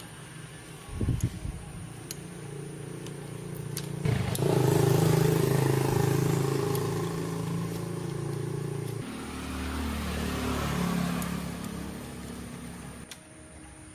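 A motor running with a steady hum. It gets louder about four seconds in, shifts lower in pitch around nine seconds, then fades away near the end.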